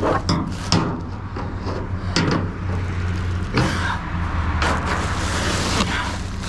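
Scrap items knocking and clattering as they are handled and loaded onto a truck, several separate impacts over a steady low engine hum.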